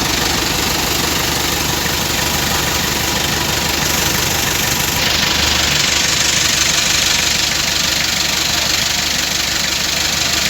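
Diesel engine idling steadily, with its usual clatter.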